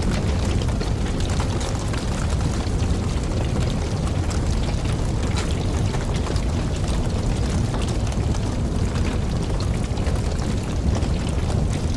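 Wood fire burning: a steady low rumble of flames with frequent small crackles and pops from the logs.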